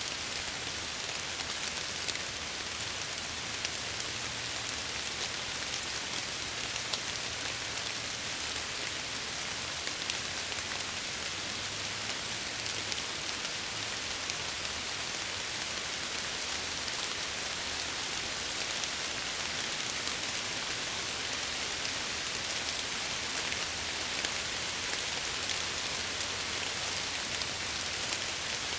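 Steady rain falling, with many small drop ticks over an even hiss and a faint low rumble underneath.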